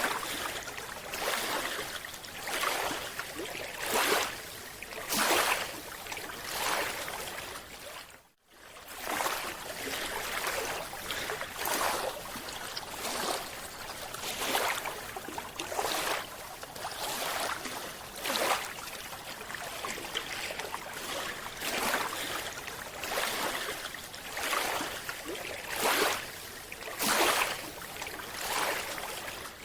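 Underwater recording of rushing, bubbling water noise that swells in surges every second or two, typical of a scuba diver's exhaled bubbles. It cuts out briefly about eight seconds in.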